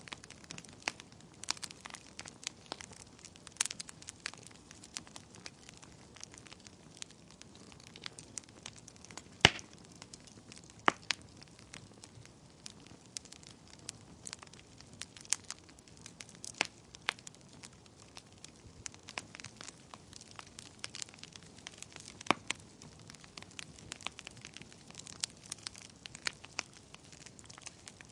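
Wood fire burning in a fireplace: a soft steady hiss with irregular sharp crackles and pops, a few loud snaps among them, the loudest about nine and a half seconds in.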